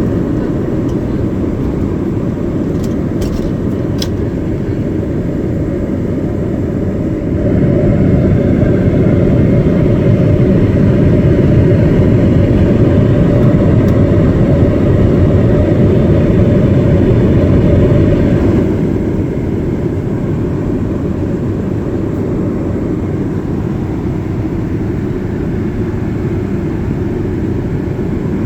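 Airplane cabin noise: a steady, low, even rush. It grows louder about seven seconds in and drops back about eighteen seconds in, with a few faint clicks near the start.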